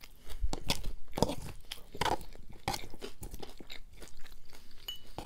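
Close-miked chewing of a mouthful of fresh salad of leafy greens, cucumber and noodles, in irregular crisp crunches.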